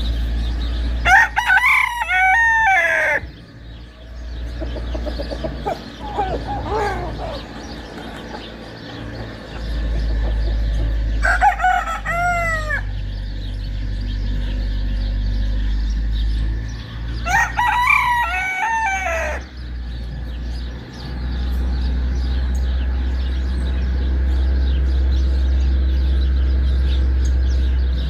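A rooster crowing three times, each crow about two seconds long with a falling end, and a fainter call between the first two. A steady low rumble runs underneath.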